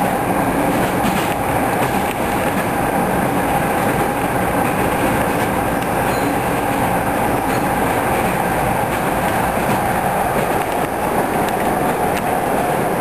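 Passenger train running along the track: a steady rumble with a faint clatter of wheels over the rails.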